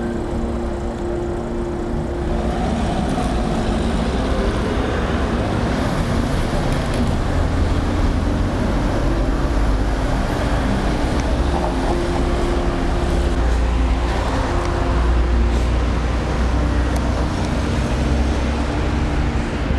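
Steady street traffic noise: a continuous low rumble with the steady hum of passing or idling vehicle engines.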